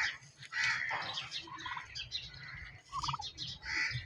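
Several birds chirping and calling in a busy, overlapping chatter, with two short lower calls about one and a half and three seconds in.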